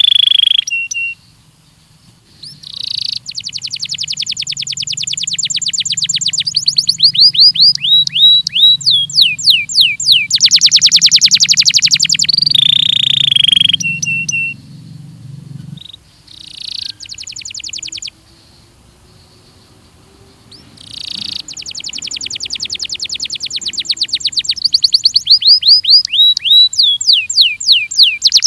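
Belgian canary singing: loud, high-pitched phrases of rapid, evenly repeated notes and fast trills, with runs of quick down-sliding whistles. The song breaks off briefly about a second in and for a longer pause past the middle.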